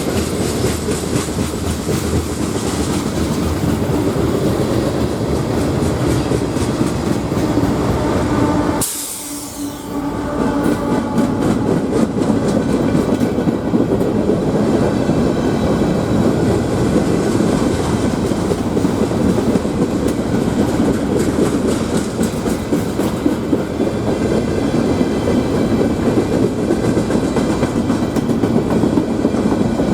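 Freight train cars rolling past: a steady rumble with wheels clicking over the rail joints. The sound briefly drops out about nine seconds in, then picks up again.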